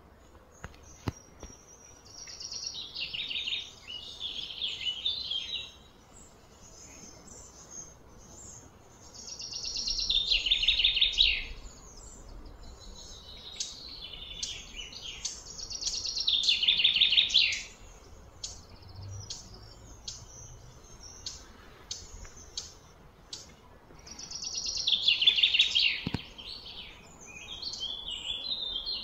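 A bird singing four long, high, trilled phrases a few seconds apart, with short chirps in between.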